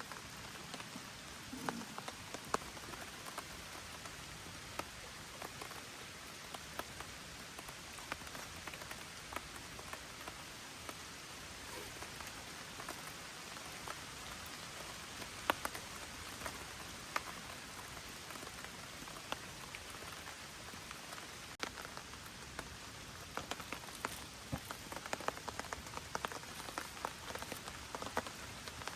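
Gentle rain falling steadily, with scattered individual drops landing close by as sharp ticks, more of them near the end.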